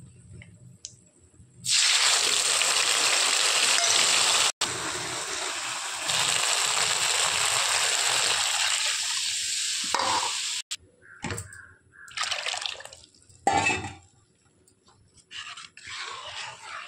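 Loud, steady sizzling of a tempering frying in hot oil in a kadhai, breaking off abruptly twice. Near the end, liquid gram-flour and buttermilk batter is poured into the hot pan in short splashing, sizzling bursts.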